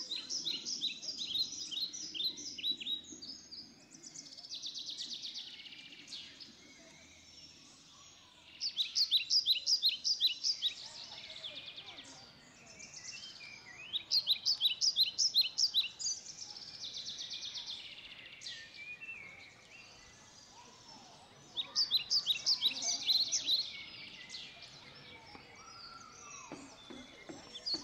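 A songbird singing: short phrases of rapid high notes, each two to three seconds long, repeated every few seconds over faint outdoor background noise.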